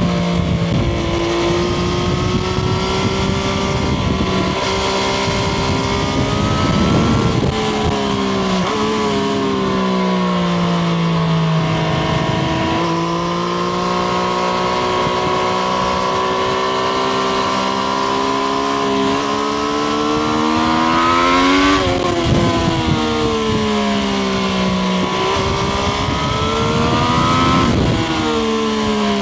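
Triumph Street Triple RS motorcycle's 765 cc inline three-cylinder engine heard onboard while riding. The engine note climbs slowly in pitch through a gear and then drops suddenly at the shifts, once about a third of the way in and twice more near the end.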